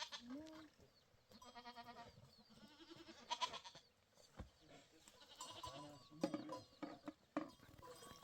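Goats bleating: several separate wavering calls a second or two apart.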